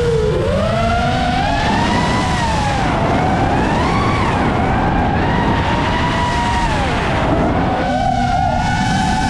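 FPV quadcopter's motors and propellers whining in flight, the pitch swooping up and down again and again as the throttle changes, over a steady low rush.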